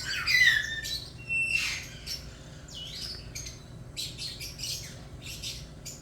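A hatching kite chick calling: a string of short, high squeaky cries, some sliding in pitch, loudest in the first two seconds.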